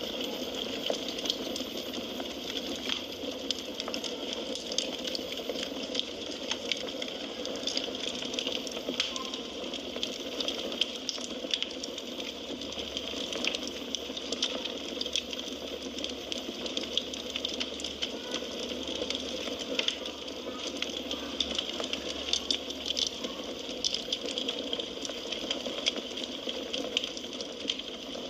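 Firewood burning: a steady hiss of flames with many small crackles and pops scattered throughout.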